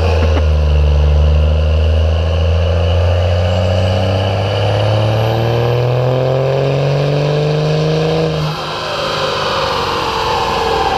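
Turbo diesel truck engine making a dyno pull under full load, its pitch climbing steadily for about eight seconds, then dropping suddenly as it comes off the pull and settles lower.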